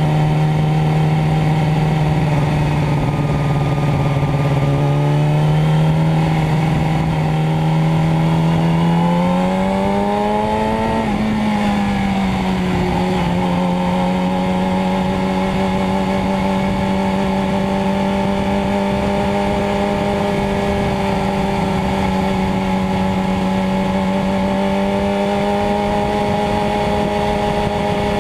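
Motorcycle engine running steadily. Its pitch climbs from about five seconds in to a peak near eleven seconds, eases back slightly, then holds an even note.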